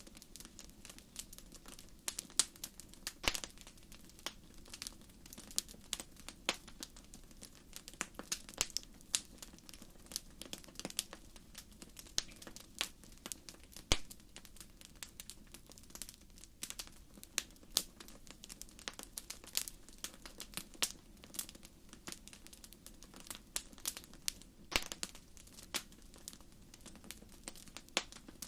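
Wood fire in a fireplace crackling: irregular sharp pops and snaps, bunched several together at times, over a steady low background of the burning.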